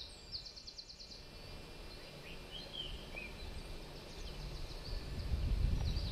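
Songbirds singing: quick series of high, rapidly repeated down-slurred notes at the start and again near the end, with a few lower chirps in between, over a low rumble that grows louder toward the end.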